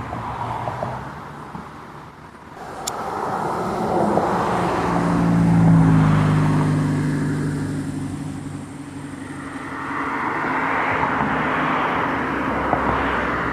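Road traffic passing: one vehicle's engine hum swells and fades over about five seconds, then a second vehicle passes with a hiss of tyres near the end.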